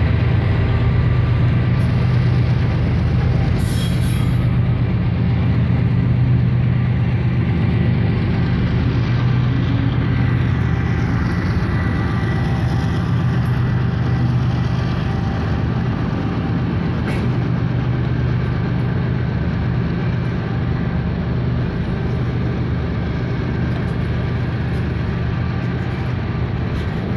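Ferromex diesel-electric freight locomotives working under power as the train pulls away, a steady low engine drone with freight cars rolling past close by. The drone eases off a little over the second half as the locomotives draw away.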